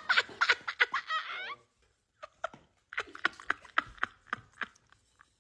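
A person laughing in short, breathy bursts. The laughter breaks off about a second and a half in, then picks up again as a run of quieter giggles.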